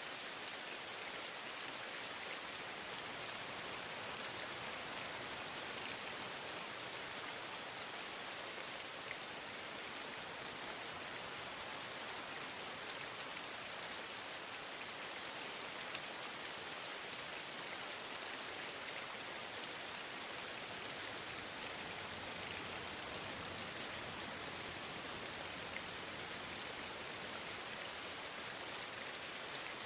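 Steady rainfall, an even hiss of many drops with scattered sharper drop ticks.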